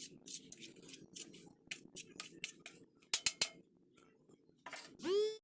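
A string of short, sharp clicks and snips, the loudest a quick cluster of three a little past the middle, then a short rising squeak-like tone right at the end that cuts off abruptly.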